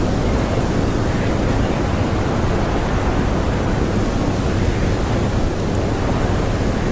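Blizzard wind blowing steadily, a dense low rushing noise with no gusts or breaks.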